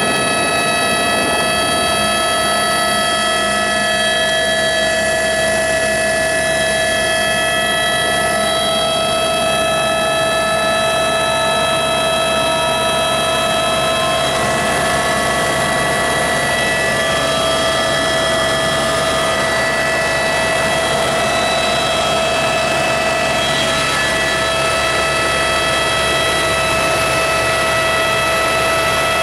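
Helicopter in flight, heard from on board: a loud, steady drone of turbine and rotor with several steady whining tones over a constant rush. One fainter tone slowly rises in pitch through the middle.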